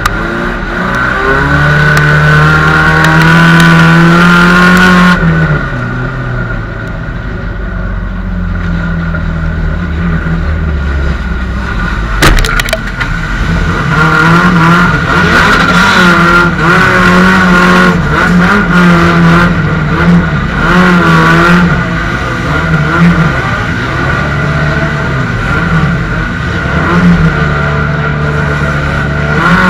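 Banger racing car's engine, heard from inside its stripped-out cabin, revving up and down again and again as it is driven hard. There is a sharp bang about twelve seconds in, followed by more knocks and clatter.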